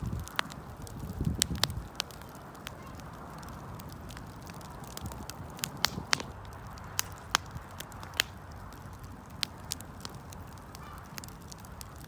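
Wood campfire crackling: irregular sharp pops and snaps over the steady rush of the flames, with a brief low rumbling in the first couple of seconds.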